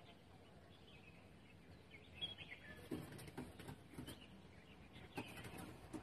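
Faint outdoor background with a short bird chirp about two seconds in, followed by a run of soft knocks and another near the end.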